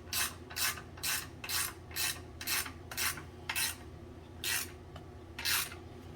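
Ratchet wrench being swung back and forth to run down bolts that are to be torqued to 90 foot-pounds. Each stroke gives a short rasp, about two a second, slowing and then stopping about five and a half seconds in.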